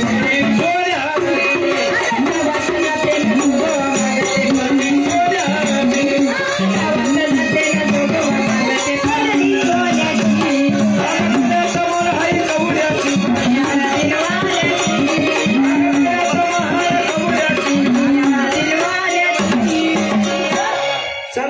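Marathi vaghya-style devotional folk music: a winding melody over a fast, even percussion rhythm with a rattling, jingling texture. It dips briefly near the end.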